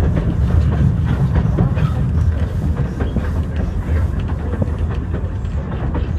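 Steam train rolling along, heard from aboard one of its cars: a steady low rumble with the wheels and cars clattering and rattling throughout.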